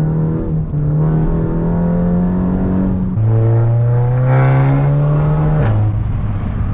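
Volkswagen Golf 7 GTI's stage 2 tuned 2.0 TFSI turbo four-cylinder with a decat exhaust, heard from inside the cabin, accelerating hard. Its note climbs steadily and drops sharply with a DSG upshift about three seconds in, then climbs again until a second upshift near the end.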